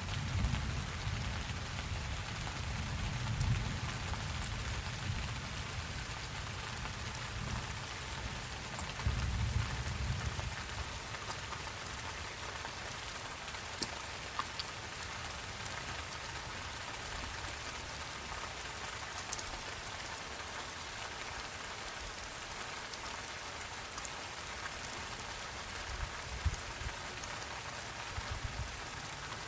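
Steady rain falling, an even hiss of drops. A low rumble of distant thunder dies away over the first ten seconds or so.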